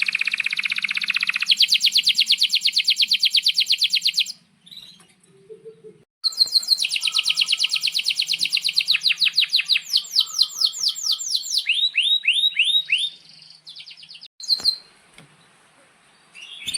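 Male domestic canary singing long rolling trills: rapid runs of about ten notes a second, broken by a pause of about two seconds, then a long run of trills that ends in a few downward-sliding notes. A fresh trill starts right at the end.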